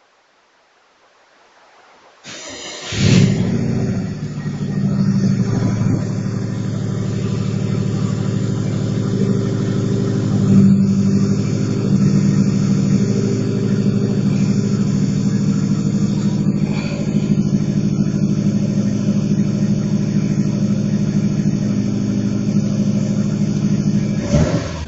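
Subaru Impreza STI's turbocharged flat-four engine starting from cold about two seconds in, with a brief loud flare, then idling steadily.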